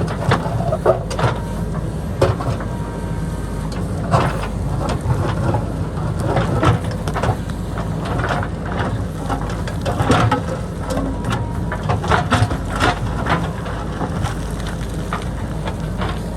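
JCB backhoe loader's diesel engine running steadily, with many short knocks and crunches of rock and soil as it digs into the hillside.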